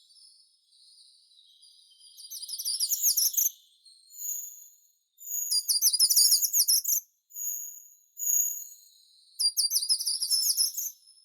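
A songbird singing high, rapid phrases of trills and clear whistles, each about half a second to two seconds long, with short pauses between them.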